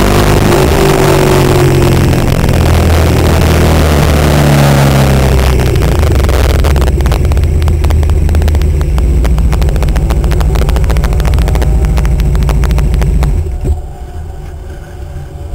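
Suzuki SV650's V-twin engine slowing from speed, the pitch falling, then running at low revs with a steady, fast pulsing beat as the bike rolls along slowly. The engine sound stops suddenly about two seconds before the end, leaving a much quieter background.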